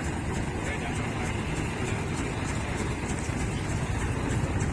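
Steady road traffic noise: vehicle engines and tyres on a street.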